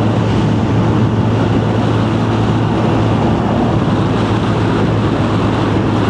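Benelli BN 125's single-cylinder engine running at a steady pace under way, a constant low hum under heavy wind rush on the microphone.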